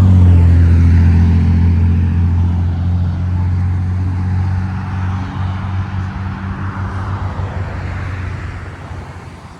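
Motor vehicle engine running close by with a low, steady hum, fading gradually as the vehicle moves away.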